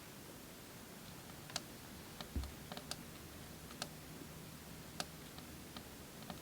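Wood crackling in a wood stove: faint, irregular sharp pops and clicks, with one soft low thump about two and a half seconds in.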